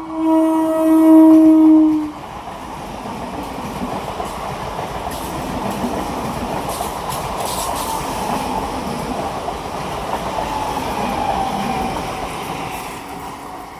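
A local train's horn sounds one steady, loud note that cuts off about two seconds in, then the train passes with a steady rumble and wheel clatter that eases near the end.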